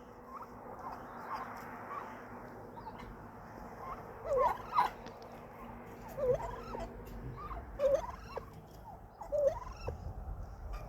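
Domestic turkeys calling in short, separate hooked notes, one every second or two from about four seconds in, over a low rumble that grows in the second half.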